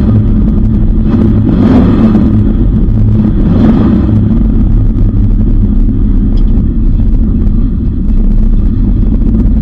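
The Dodge Dart's 360 V8 idling with a steady low rumble, heard from inside the car. Brief swells in the sound come about two seconds apart in the first few seconds, then it settles.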